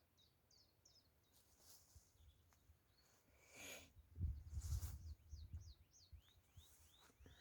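Small songbirds singing: a quick series of short high chirps, then a run of rising whistled notes near the end. A low rumble on the microphone comes in from about halfway.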